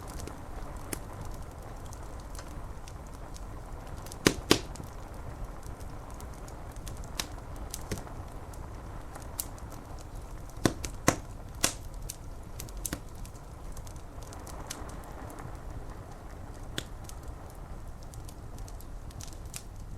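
Wood fire crackling, with scattered sharp pops, the loudest a pair about four seconds in and a cluster about eleven seconds in, over a steady low hiss of rain on the window glass.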